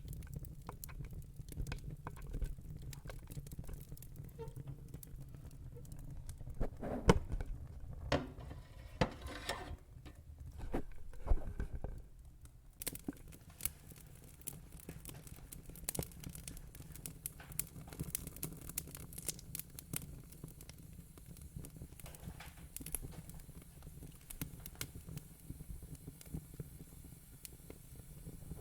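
Wood fire crackling in a fire pit: irregular snaps and pops over a low steady rumble, with a few louder pops standing out.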